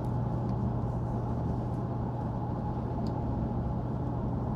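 Jaguar XK8's V8 cruising steadily at about 60 mph in sport mode, heard from inside the cabin: a constant low exhaust drone mixed with road and wind noise.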